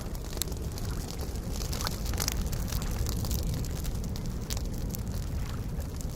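Wood campfire crackling, with sharp irregular pops and snaps. Beneath it is a steady low rush of soft lake waves.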